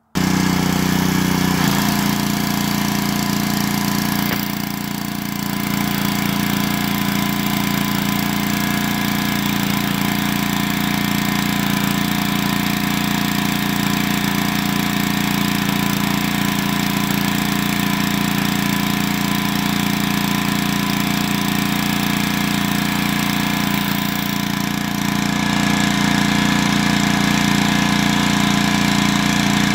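Gas pressure washer's small engine running steadily under load, with a brief dip in level about five seconds in and a slight rise near the end.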